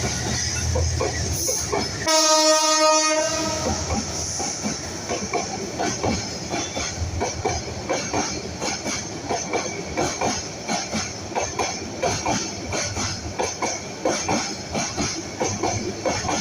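A train's locomotive horn sounds one blast of about a second, a couple of seconds in. Throughout, the wheels clatter rapidly over the rail joints.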